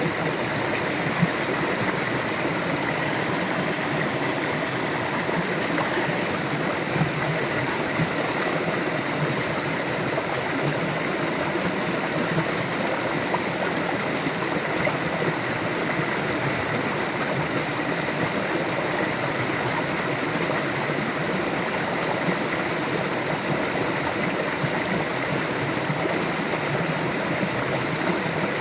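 A river flowing over rocks: a steady, even rush of water with small splashes and gurgles.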